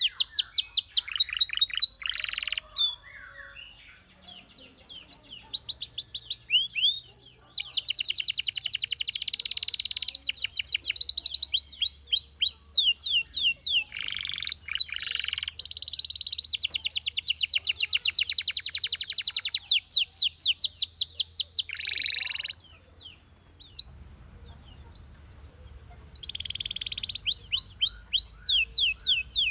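Belgian canary singing: phrase after phrase of fast trills, each a rapid run of repeated notes, with short pauses between phrases and two longer breaks, a few seconds in and near the end.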